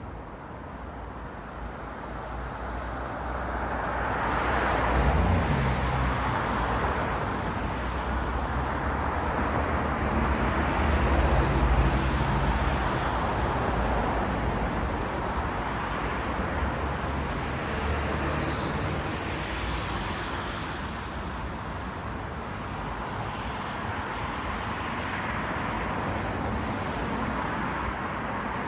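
City road traffic: vehicles passing one after another, their tyre and engine noise swelling and fading over a steady traffic hum, with three louder passes and a fainter one.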